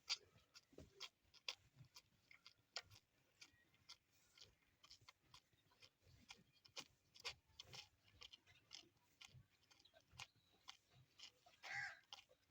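Faint, irregular crunching clicks of a farm animal chewing, a few a second, with one short, slightly louder rustling sound near the end.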